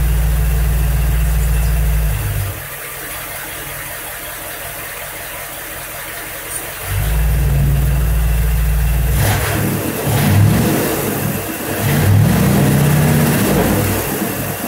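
1977 Mercury Marquis V8, warmed up, running with the throttle worked: the engine note is loud for a couple of seconds, drops back, comes up again about seven seconds in, then rises and falls unevenly through the second half, with the loudest surges about ten and twelve seconds in.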